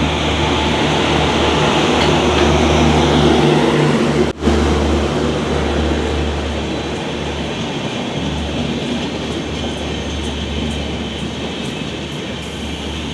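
Mumbai suburban local electric train running on the track: a steady rumble over a low hum, loudest a few seconds in and then slowly easing off, with a brief dropout about four seconds in.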